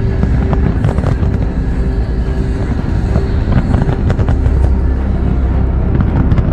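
A big aerial fireworks barrage: many shells bursting at once in a continuous deep rumble, with sharp bangs and crackles on top. Music plays underneath.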